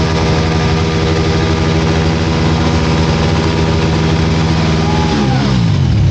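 Motorcycle engine held steady at raised revs, then dropping back toward idle about five seconds in.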